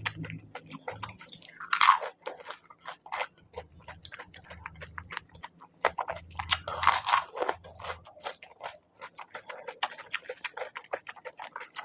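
Crisp panipuri shells crunching and being chewed close to the microphone, one mouthful after another, with rapid sharp crackles throughout and louder crunches about two seconds in and again around seven seconds.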